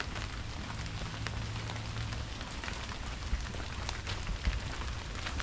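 Steady rain falling, an even hiss with scattered ticks of single drops and a few louder taps in the second half.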